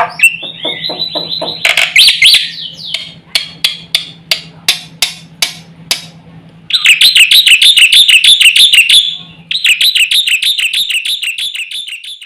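Black-winged myna (jalak putih) singing in full voice. It starts with a varied run of sharp whistles and clicks, then gives two long phrases of fast, evenly repeated chattering notes with a short break between them.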